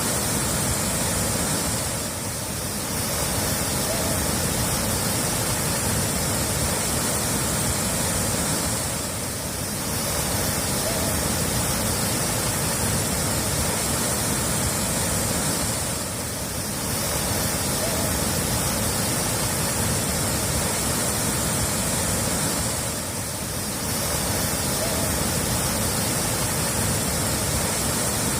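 Steady rushing of running water, a looped recording that dips briefly in level about every seven seconds.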